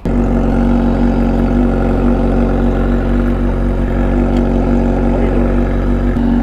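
A vehicle engine idling steadily and loudly, beginning abruptly.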